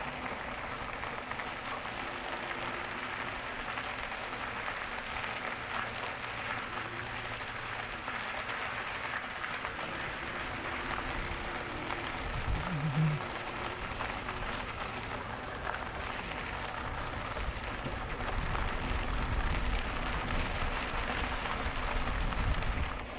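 Steady hiss of bicycle tyres rolling on the trail surface during an e-bike ride, with wind on the microphone and a brief low bump about halfway through.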